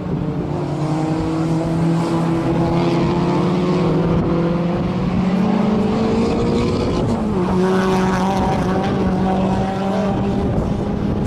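Sport-compact race car engine running hard at high revs, its note climbing slowly, then dropping sharply about seven seconds in before holding steady again.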